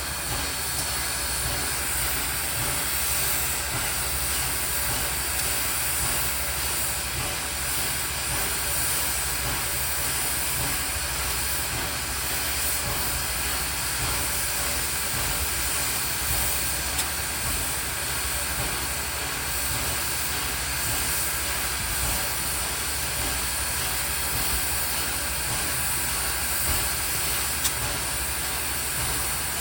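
Steady hiss of escaping steam from a standing steam locomotive, even and unbroken, with no exhaust beats or whistle.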